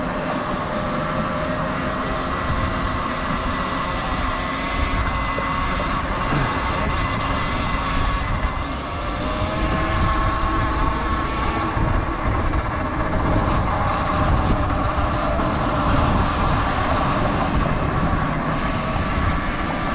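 Sur Ron electric dirt bike being ridden: the electric motor's whine, several steady tones drifting slightly up and down in pitch with speed, over a low rumble of wind on the microphone.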